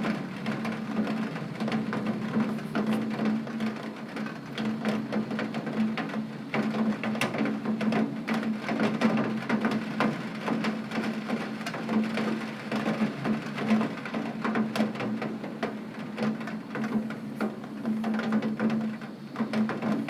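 Heavy rain striking window glass: a dense, continuous patter of drop hits, with a steady low hum underneath.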